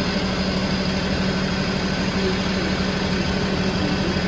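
A vehicle engine idling steadily: an even low hum with a fast pulse underneath, unchanging throughout.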